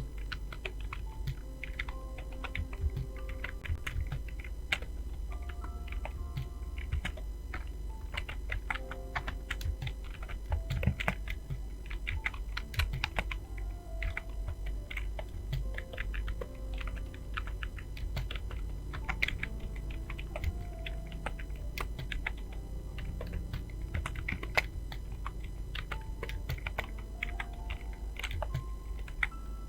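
Continuous fast typing on a computer keyboard: a dense, irregular run of key clicks, several a second. Faint background music notes and a low hum sit underneath.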